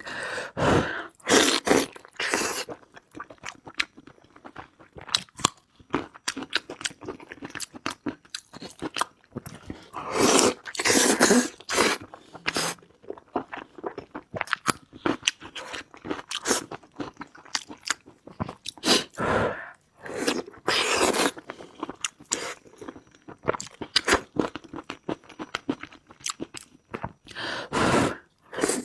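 Close-miked eating: chewing and crunching of food with many short sharp clicks, and several longer, louder stretches of chewing.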